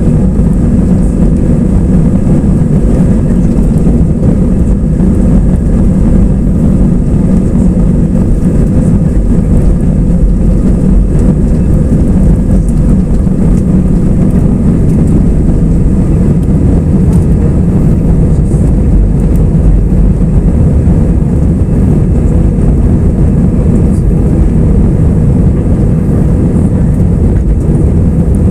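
Airbus A320 cabin noise: a loud, steady rumble of the jet engines and airflow heard from inside the passenger cabin, unchanging throughout.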